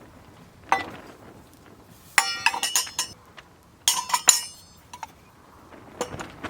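Hard metal pieces clinking together in two quick clusters of clinks with a short ring, about two seconds in and again about four seconds in, with a lone click before and after.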